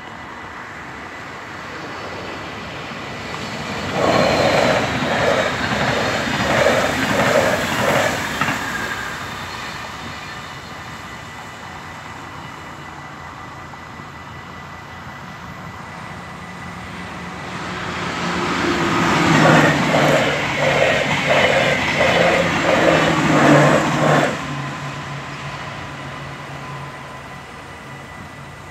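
Two trains pass a Dutch level crossing one after the other, each with a rhythmic clatter of wheels over the rails, the second also with a low hum. The crossing's warning bell rings steadily under them.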